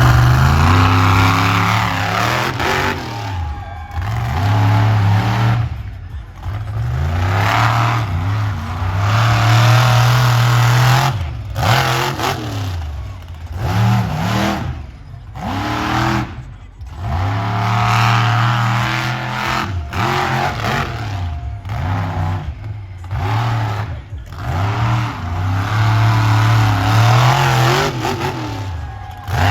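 Monster truck engine revving hard in repeated bursts, its pitch climbing and falling with the throttle. The sound drops off briefly between bursts every few seconds.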